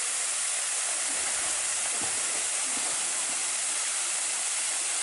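Waterfall's falling water: a steady, even rushing hiss.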